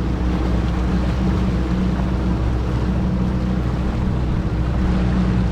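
Small boat's motor running steadily at cruising speed, a constant low drone with water and wind noise rushing past.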